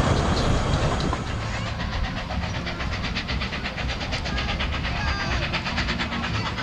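For about the first second, a 2 ft gauge miniature railway train running, its rumble heard from inside a carriage. After that the sound changes to a fast, even ticking, about eight to ten a second, with a few short chirps over a steady low rumble.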